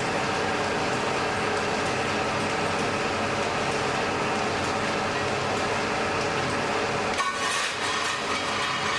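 Blacksmith's forge fire burning under a steady air blast, a constant rushing noise with a steady hum in it. About seven seconds in, a brief metallic clinking cuts across it.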